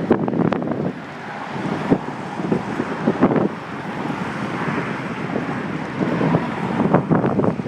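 Wind buffeting the microphone of a handlebar-mounted phone on a moving bicycle, a loud steady rush broken by frequent short knocks and rattles.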